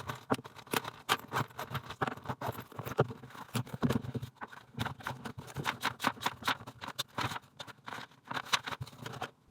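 A quick, irregular series of light taps and clicks, several a second.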